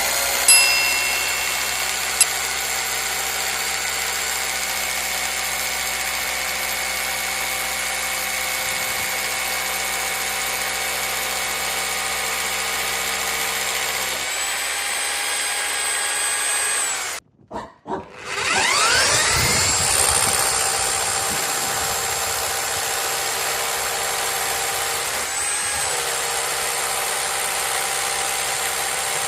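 Parkside PBH 1050 D4 electric rotary hammer running free at a steady speed, its motor giving an even whine, with two sharp clicks in the first few seconds. About 14 s in the pitch steps up slightly; a few seconds later the motor runs down and stops, then spins back up within about a second and runs on steadily.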